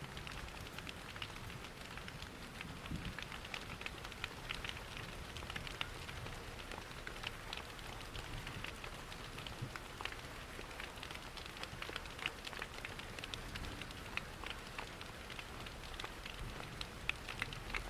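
Steady rain mixed with a crackling fireplace, with many small sharp pops and ticks scattered through an even wash of noise.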